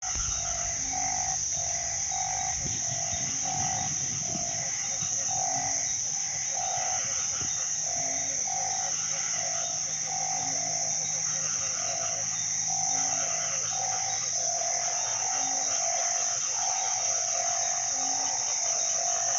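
Frogs calling in short repeated notes, about two a second, with a lower note joining every second or so, over a steady high drone of insects in the rainy season.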